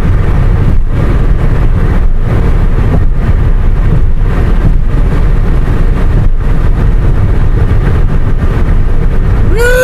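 Car on the move with loud, steady road and wind noise: a deep rumble with hiss above it.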